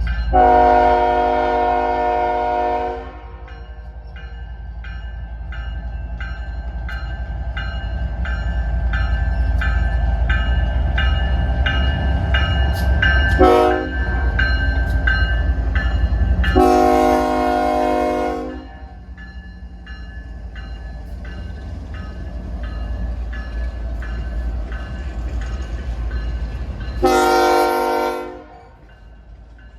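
Diesel freight locomotive air horn sounding four blasts: a long one, a brief one about 13 seconds in, another long one and a last one near the end. Underneath is the steady low rumble of the locomotives pulling a loaded-length coal train away slowly, with a regular clicking or ringing about twice a second through the middle.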